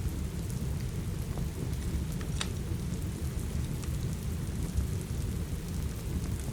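Steady rain with a deep, even rumble, mixed with the sparse pops and snaps of a crackling wood fire; one sharper crackle about two and a half seconds in.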